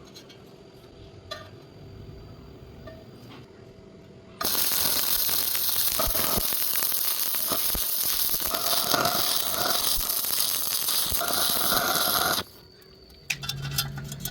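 Electric arc welding: a loud, steady crackle that starts abruptly about four seconds in, runs for about eight seconds and cuts off suddenly as the arc is broken.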